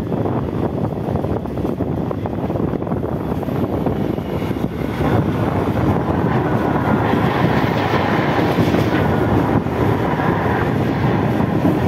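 Mumbai Western Railway EMU local train running at speed, heard from its open doorway: a steady rumble of wheels on rail, growing louder with more hiss from about five seconds in.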